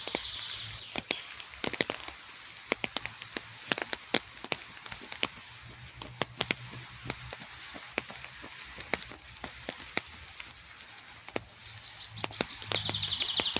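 Rain falling in a park, with heavy drops landing in sharp, irregular ticks over a steady hiss. A songbird gives a rapid high trill at the start and again near the end.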